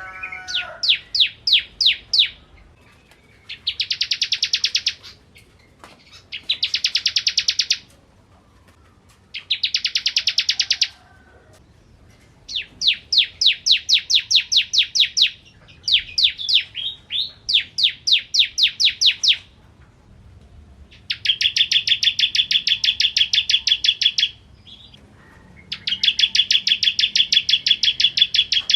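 Bar-winged prinia (ciblek) singing: about eight bursts of rapidly repeated high, sharp notes, each burst one to three seconds long with short pauses between.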